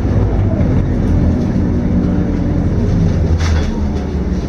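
Scania K230UB city bus's diesel engine running under way, heard from inside the bus as a steady low drone. A brief hiss comes in about three and a half seconds in.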